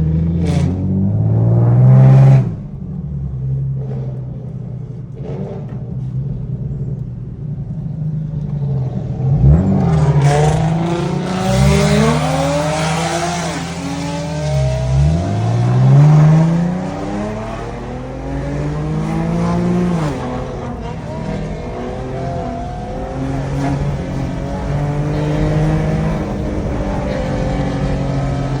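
Infiniti G37xS's 3.7-litre V6 engine running loud for a couple of seconds, dropping back, then revving up and down several times in the middle before settling to a steady drone.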